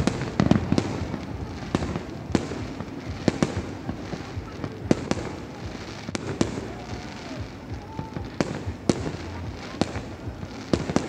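Aerial fireworks display going off: sharp bangs at irregular spacing, about one a second, over a continuous crackle and rumble of smaller bursts.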